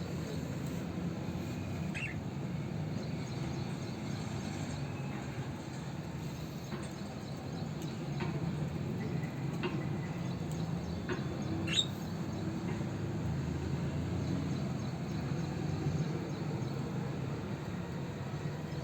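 A few short, scattered budgerigar chirps and clicks, one sharper rising chirp about halfway through, over a steady low background rumble.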